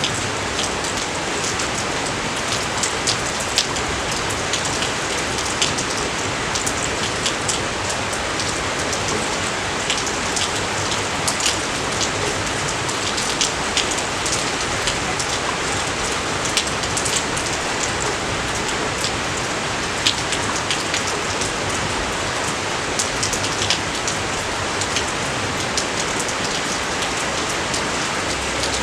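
Steady rain: a dense, even hiss of falling rain with frequent sharp ticks of individual drops striking close by.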